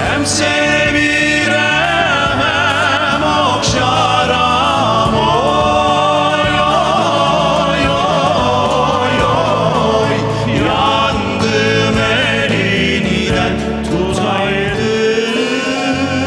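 Male voices singing a Turkish–Azerbaijani folk song (türkü) with strong vibrato over instrumental accompaniment.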